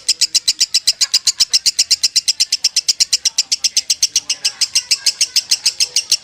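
Lovebird singing in the unbroken 'konslet' style: a rapid, steady train of sharp chirps, about ten a second, with no pause.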